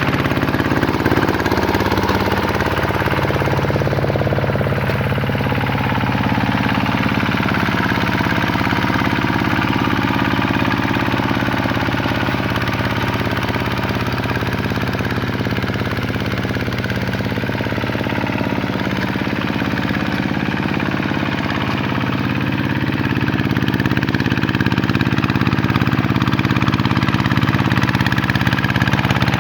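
Vikyno RV125-2 hand tractor's single-cylinder diesel engine running steadily while ploughing, its engine note shifting slightly about five seconds in.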